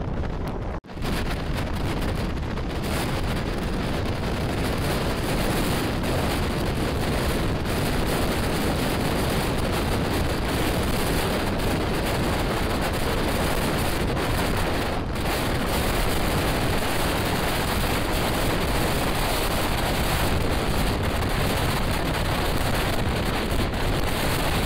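Steady rush of wind buffeting the microphone over the running noise of a moving Jan Shatabdi Express passenger train, with a brief break about a second in.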